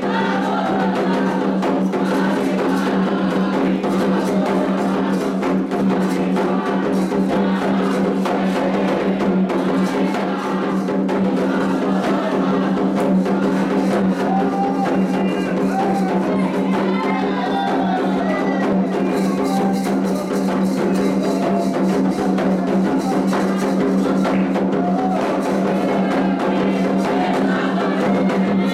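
Candomblé atabaque drumming with voices singing over it, played as the rum, the rhythm for Oxum's dance. The strokes are dense and unbroken.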